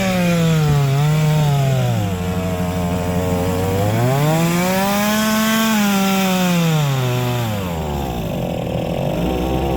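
Two-stroke chainsaw revving up and down as it cuts wood. It drops back about two seconds in, is held at high revs again for about three seconds, then falls back to idle near the end.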